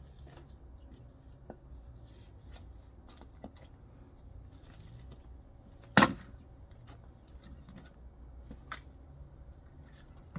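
Firewood being split with an axe: one loud, sharp strike into a log about six seconds in and a lighter knock a few seconds later, with faint rustling between.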